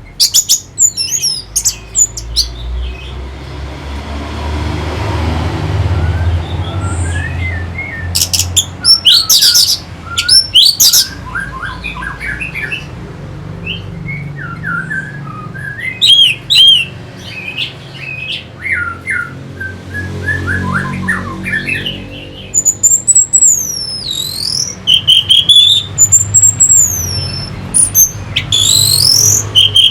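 Orange-headed thrush singing: quick runs of varied chirps and whistled phrases, with high sliding whistles toward the end. A low rumble sits underneath.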